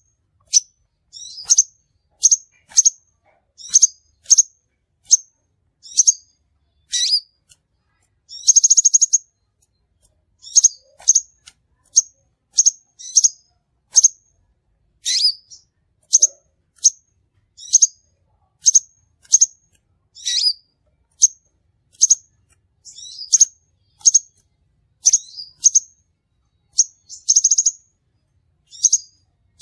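Crimson sunbird calling: sharp, high-pitched chirps, singly or in quick pairs and threes about once a second, with a rapid trill lasting about a second twice. There is clean silence between the calls.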